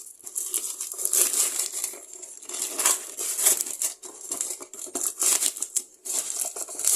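Plastic packaging crinkling and crackling in irregular bursts as a product is unboxed.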